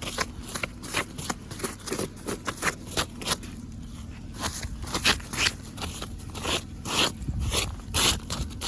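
Scraping and crunching of ice-crusted snow being cleared off a car, a quick run of short strokes with a brief lull midway, over the low steady run of the car's engine idling as it warms up.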